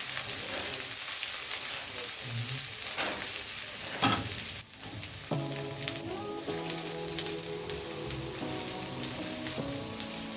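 Food sizzling and crackling in a hot pan, a steady hiss full of small pops. About halfway through it breaks off suddenly, and gentle music with held notes comes in over a continuing soft hiss.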